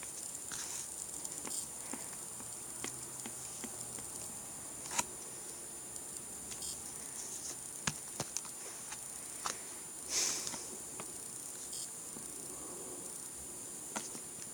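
Calculator buttons pressed one at a time: a dozen or so short, irregularly spaced clicks, with a longer rustle about ten seconds in, over a steady faint hiss with a high-pitched whine.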